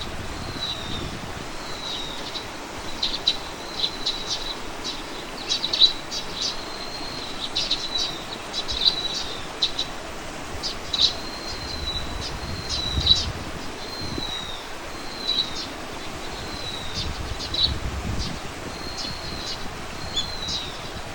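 Small birds calling continuously, a steady stream of short high chirps and slurred whistled notes. Low wind rumble on the microphone swells a few times.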